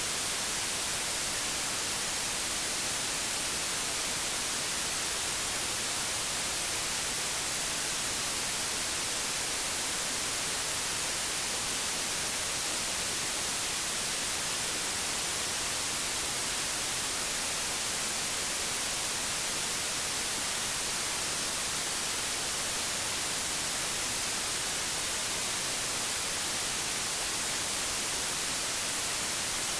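Steady hiss of analog television static, even and unbroken, brighter in the highs.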